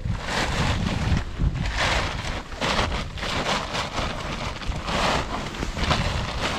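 Snow crunching in a rough rhythm about every half second to second, as of trudging footsteps, with wind rumbling on the microphone.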